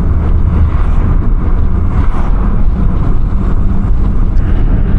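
Audi S3 8P's turbocharged 2.0 TFSI four-cylinder engine, fitted with an aftermarket downpipe, running steadily as the car drives along, a low even drone mixed with road noise.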